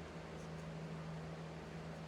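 Quiet room tone: a steady low hum with faint hiss, and no distinct event.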